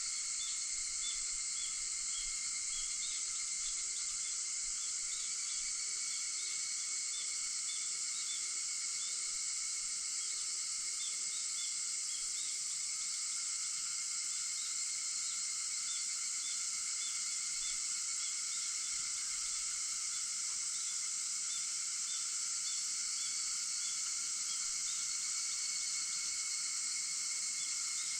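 A chorus of cicadas singing in one dense, unbroken high-pitched drone, with faint short chirps repeating quickly through the first half.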